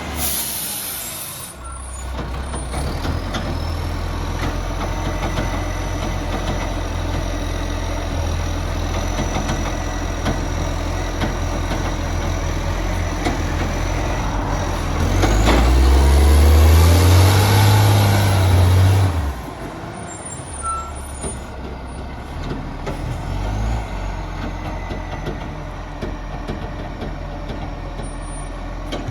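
Garbage truck's diesel engine running steadily, with a short air hiss right at the start. About fifteen seconds in, the engine revs up and is louder for about four seconds, then drops back to its steady running.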